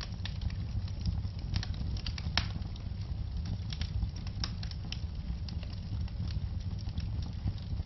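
Wood fire burning with irregular sharp crackles and pops over a steady low rumble; the loudest pop comes about two and a half seconds in.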